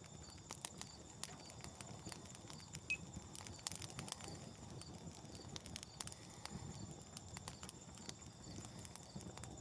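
Newly lit campfire of birch bark, twigs and kindling burning, the wood crackling with many irregular sharp pops and snaps.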